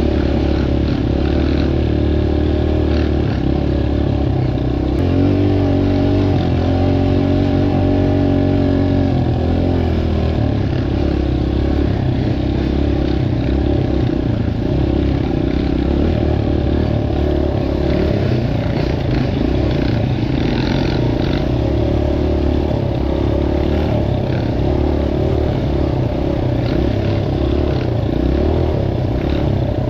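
Dirt bike engines running continuously, their pitch rising and falling with the throttle, most noticeably about five to ten seconds in.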